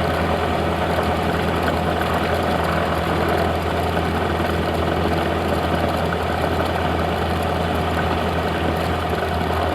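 Cessna 172's piston engine and propeller running at a steady speed, heard from inside the cabin as a constant drone with a strong low hum.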